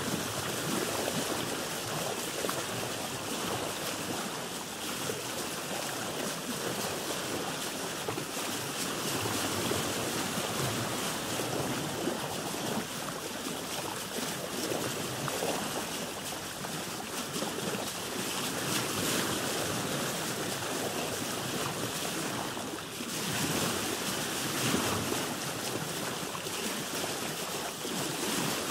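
Sea water washing and splashing around a boat, an uneven continuous wash with small surges. There is a brief dip a little over 20 seconds in, then a louder surge about two seconds later.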